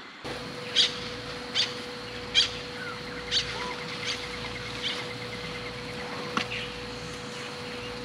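Birds calling: a short, sharp chirp repeated about once a second, with a faint fast trill for a couple of seconds in the middle. A steady low hum runs underneath.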